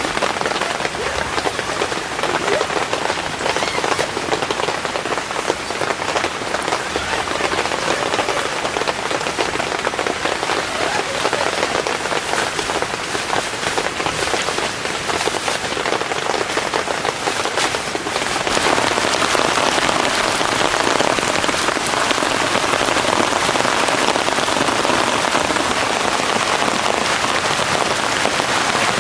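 Heavy rain falling steadily, thick with drop impacts, growing louder about eighteen seconds in.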